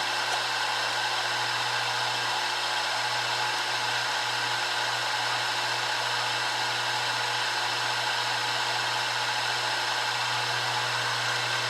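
Milling machine running steadily, its spindle motor giving an even whir with a low hum underneath.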